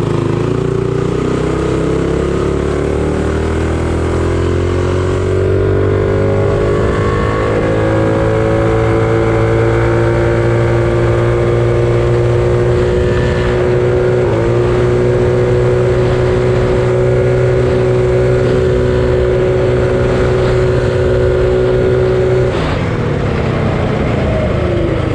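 Predator 212 non-hemi single-cylinder engine with a 275 cam on a minibike, run at full throttle: the pitch climbs over the first several seconds, then holds steady at top speed. About halfway there is a brief stumble, the engine cutting out a little. Near the end the throttle comes off and the engine note drops.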